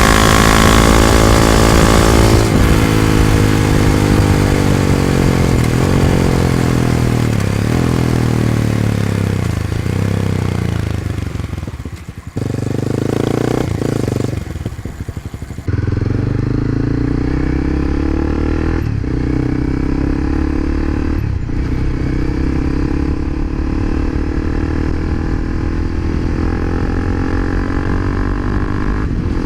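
Exhaust of a Honda CBR300R's single-cylinder engine, recorded close at the pipe. The revs fall for about ten seconds, the sound drops back briefly, then the revs climb again with a couple of short breaks as it shifts up. The muffler's glass-wool packing is worn thin, which the rider says makes the note a bit raspy and shrill.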